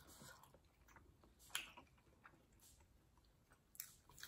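Faint chewing and mouth sounds of people eating steamed momo dumplings, with a few sharp little clicks, the loudest about one and a half seconds in and two more near the end.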